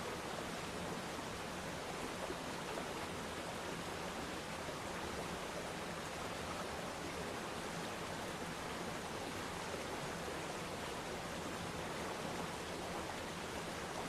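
Waterfall pouring into a pond: a steady, even rush of falling water.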